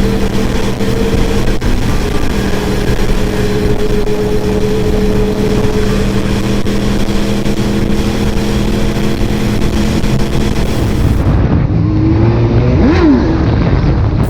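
Motorbike engine running at a steady speed, with road and wind noise. After about eleven seconds the sound changes, and near the end an engine revs up and drops back briefly.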